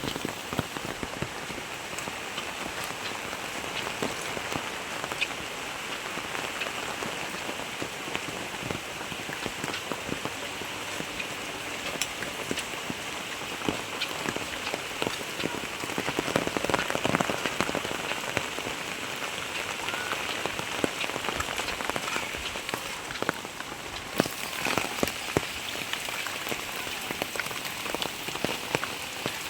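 Heavy rain falling: a steady hiss with many close drops ticking on surfaces, swelling briefly about halfway through.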